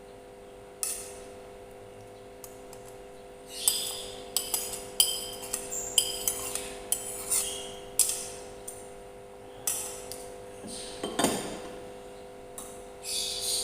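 A spoon clinking and scraping against a plate or bowl while food is served: a dozen or so sharp clinks from a few seconds in, with a longer scrape near the end. A steady low hum runs underneath.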